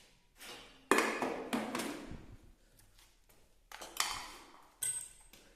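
A run of sharp knocks and clatters, each dying away over about a second, with quiet gaps between. The strongest comes about a second in and another cluster near four seconds.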